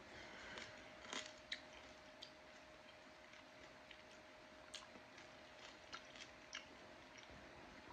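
Faint chewing of a candy-coated grape, with a few short, crisp crunches scattered through it. A faint steady hum sits underneath.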